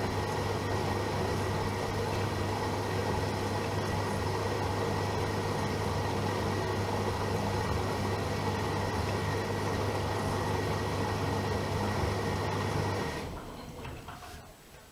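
AEG Öko-Lavamat Lavalogic 1600 washing machine running with a steady hum and a few steady whining tones. The hum stops about 13 seconds in, and the machine falls much quieter.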